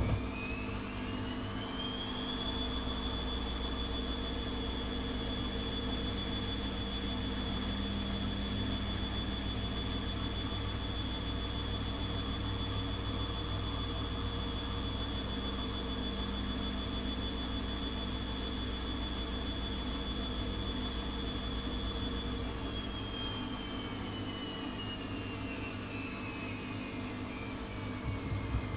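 ATLANT 70C1010 washing machine's drum motor running. Its high whine climbs in pitch over the first couple of seconds as the drum speeds up, holds steady with a low hum for about twenty seconds, then slowly falls in pitch as the drum slows down near the end.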